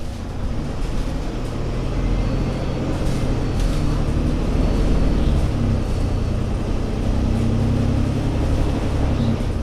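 Diesel engine of an Alexander Dennis Enviro500 MMC double-decker bus pulling under load. Its pitch rises, eases around the middle, climbs again and drops shortly before the end, as with gear changes.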